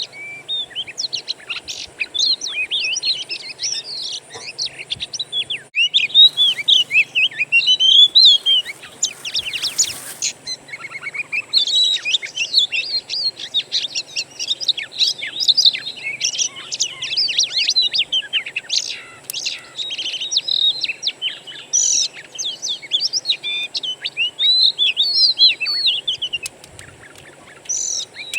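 Oriental magpie-robin (kacer) singing: a rapid, varied, unbroken stream of whistles and chirps, used as a lure song to set a kept magpie-robin singing. The song eases off briefly near the end, with a short noisy rush near the middle.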